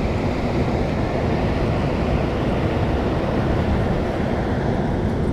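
Steady rushing noise of river water spilling over a low-water dam, with wind rumbling on the microphone.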